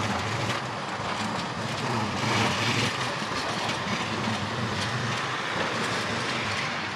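A rail vehicle running past, with a low, steady motor drone over rolling noise and faint clicks.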